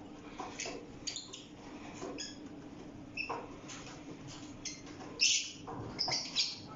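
Small pet birds chirping and squawking in short, scattered calls while they feed, the loudest a little after the middle and near the end, over a faint steady hum.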